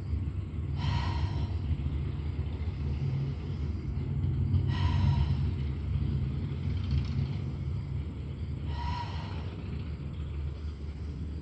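Steady low rumble with a breath, heard as a short hissy gasp, about every four seconds, three times.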